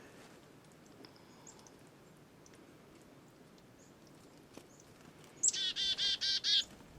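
Chickadee calling: a quick run of about eight high, buzzy "dee" notes, a little over a second long, near the end, with faint high chirps before it.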